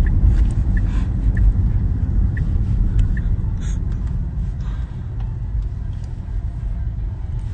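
Steady low road and tyre rumble inside the cabin of a moving Tesla electric car, with a few faint ticks.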